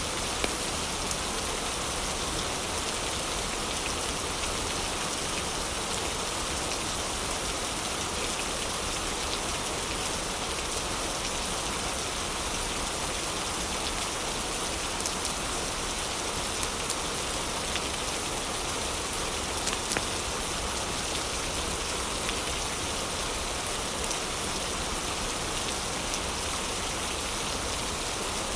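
Heavy rain falling steadily as a dense, even hiss, with scattered sharp crackles from a wood fire in a fireplace.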